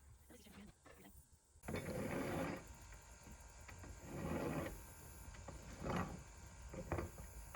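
Roof repair work on a shingle roof: several rough scraping, rasping bursts a second or two apart, as underlayment and shingles are worked loose.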